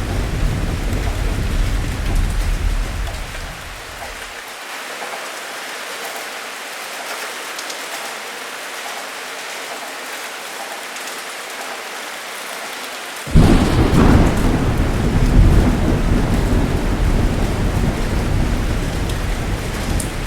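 Heavy rain falling steadily in a thunderstorm. A low thunder rumble dies away about four seconds in, leaving only the rain; about thirteen seconds in a loud thunderclap breaks suddenly and keeps rolling.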